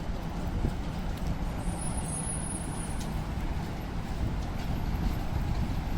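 City street traffic: motor vehicles running and passing on a rain-wet street, a steady low rumble.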